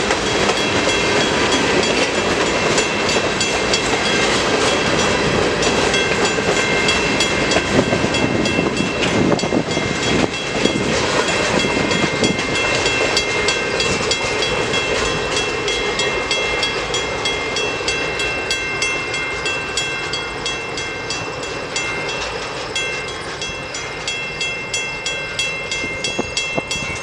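Freight cars of a CN manifest train rolling past on the rails, wheels clicking over rail joints, with faint steady high-pitched ringing from the wheels. The rumble eases a little toward the end, and the clicks stand out more.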